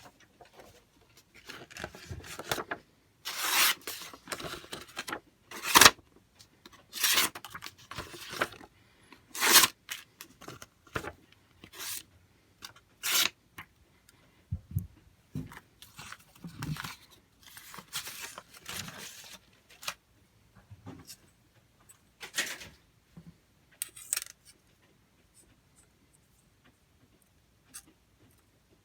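Irregular rubbing and scraping of objects being handled close to the microphone, with a few sharp clicks.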